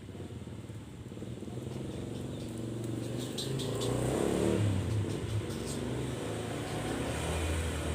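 A motor vehicle's engine, likely a motorcycle or car, running close by. It grows louder toward the middle and then stays steady, with a few short high ticks over it.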